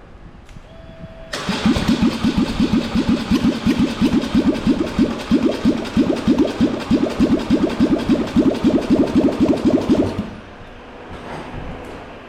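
Electric starter cranking a Polaris Sportsman 850's twin-cylinder engine in an even, rhythmic churn for about nine seconds without it catching, then stopping. It sort of sounds like it wants to fire. The engine has sat for years with old petrol in it.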